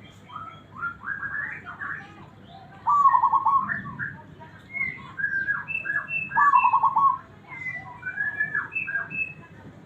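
Zebra dove (perkutut) cooing: two loud, rolling stuttered coos about three seconds and six and a half seconds in, with shorter, higher notes in between.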